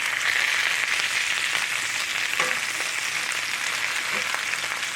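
Cabbage frying in butter in a hot cast iron skillet, a steady sizzle from the water in the cabbage hitting the hot pan.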